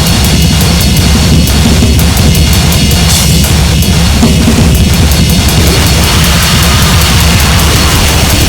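Harsh noise music: a loud, dense wall of distorted electronic noise with pounding drums underneath. It pulses about twice a second for the first five seconds or so, then runs on as a more continuous wash.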